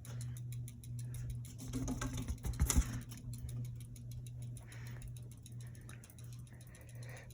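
Hampton Bay Landmark III Plus ceiling fan running, its motor giving a steady low hum with fast, faint ticking. A few low knocks come about two and a half seconds in.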